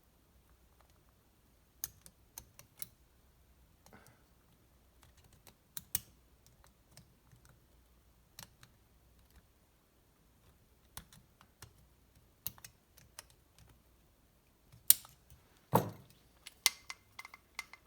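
Irregular light clicks and taps of small metal parts being handled as piston rings are worked onto a piston. There is a louder knock about 16 seconds in, and a brief ringing tone near the end.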